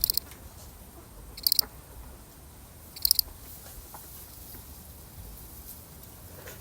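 A single field cricket chirping: three short high-pitched chirps about a second and a half apart, each a quick run of pulses, then a pause of a few seconds.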